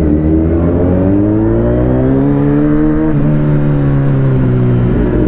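Kawasaki Z900's inline-four engine accelerating under way, its pitch rising steadily, dipping about three seconds in and then climbing again.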